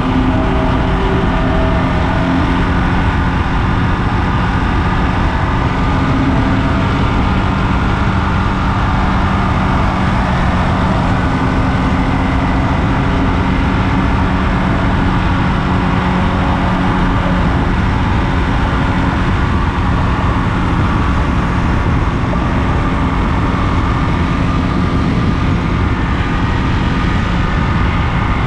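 Ducati Monster 937's V-twin engine running at a steady highway cruise, its pitch holding level, under a heavy rush of wind noise.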